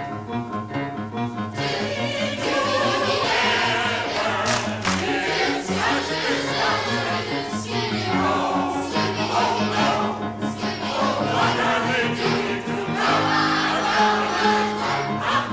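A group of voices singing a song together over instrumental accompaniment, the voices coming in about a second and a half in.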